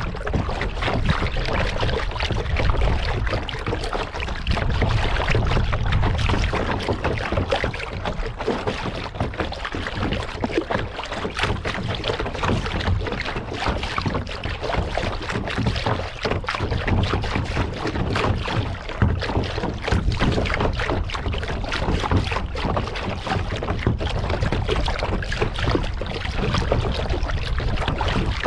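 Water splashing and lapping around a kayak on a lake: a steady, dense run of small splashes and drips with no clear stroke rhythm. A low wind rumble on the microphone sits underneath.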